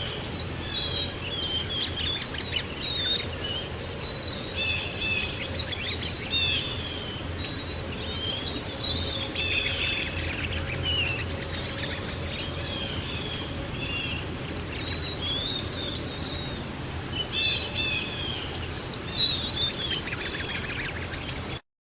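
Several small songbirds chirping and trilling over a steady low background rumble. Everything cuts off abruptly near the end.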